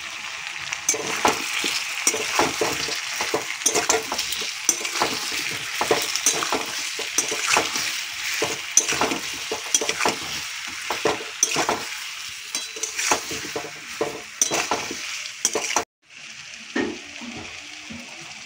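Taro and potato pieces frying in a kadai, sizzling steadily, while a spatula stirs and tosses them, scraping and knocking against the pan one or two times a second. The sound cuts off abruptly near the end, followed by a quieter stretch with a few knocks.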